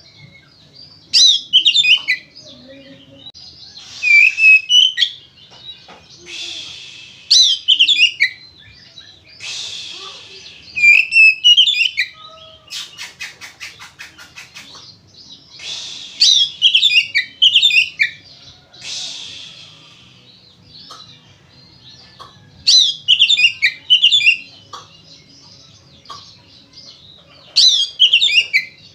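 Oriental magpie-robin (kacer) in full song: loud bursts of fast, high whistled phrases every two to three seconds, alternating with harsh hissing rasps. Midway comes a quick run of sharp clicks.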